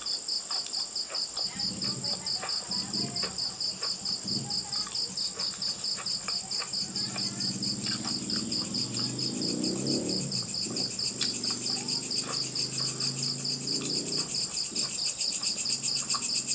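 A cricket chirping in a rapid, even, unbroken trill, with scattered sharp clicks over it and a low hum through the middle.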